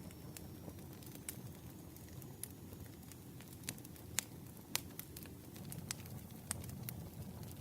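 Campfire crackling: wood snapping and popping at irregular intervals over a low, steady rumble of flames, with the sharpest pops about four and five seconds in.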